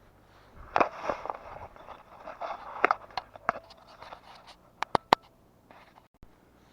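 Scraping and crackling of dry deadwood being handled, with two sharp snaps about five seconds in.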